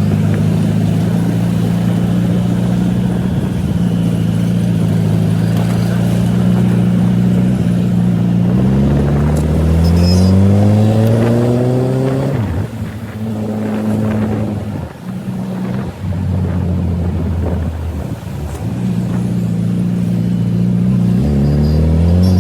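Suzuki Hayabusa's inline-four engine running steadily under the rider, then revving up with rising pitch about nine seconds in before dropping off about three seconds later. The engine note goes up and down through the middle and rises again near the end.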